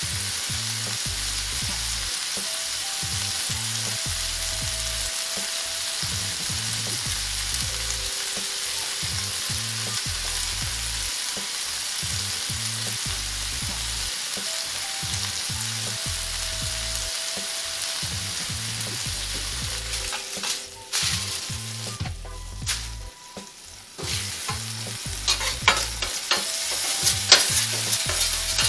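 Diced chicken sizzling steadily on a hot flat-top griddle. The sizzle drops briefly about three-quarters of the way through. Near the end a metal spatula scrapes and clacks on the griddle surface.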